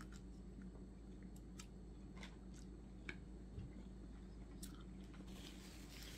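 Faint chewing of a mouthful of ramen noodles, with scattered soft wet mouth clicks.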